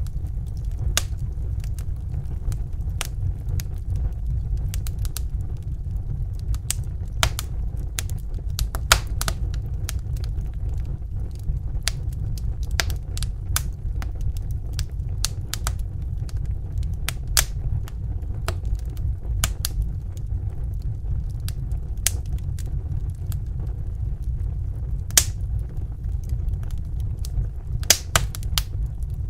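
Crackling fire: a steady low roar of burning logs with irregular sharp pops and snaps scattered throughout.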